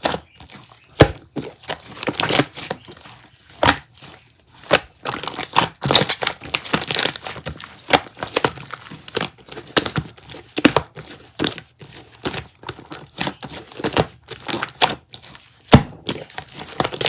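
Irregular close-up taps, clicks and knocks, with crinkling handling noise between them: small objects being handled, tapped or rustled near the microphone.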